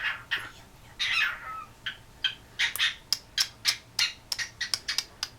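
Cockatiel vocalising: a short harsh squawk about a second in, then a run of quick, sharp clicking calls, roughly three a second.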